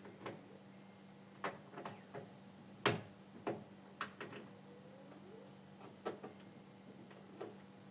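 Irregular light clicks and knocks from hands handling and fitting plastic parts while setting up a water dispenser, the sharpest knock about three seconds in, over a steady low hum.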